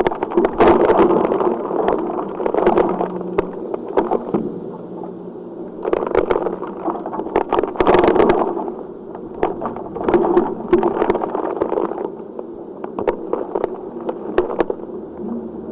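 Heavy rain pouring and splashing, thick with sharp drips and splatters, swelling in waves: loudest at the start and again about six to eight seconds in, easing in between.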